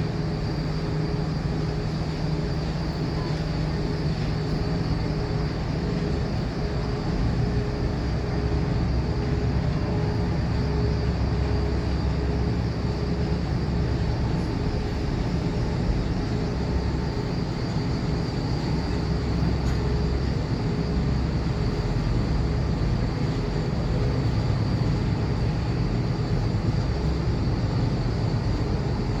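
Steady, loud engine or machinery drone, a deep rumble with a few constant humming tones running through it.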